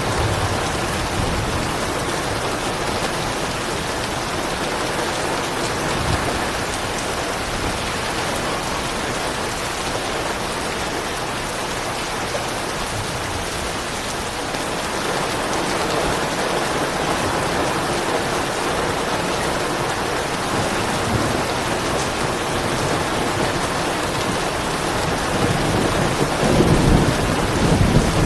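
Steady rain falling, with soft thunder rumbling low underneath; the rumble swells and grows louder near the end.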